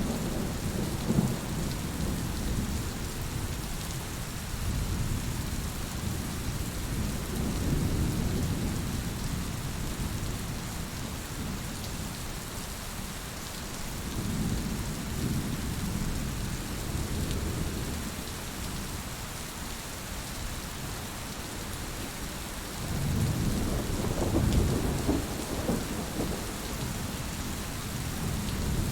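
Heavy rain falling steadily, with low rolls of thunder that swell and fade three times.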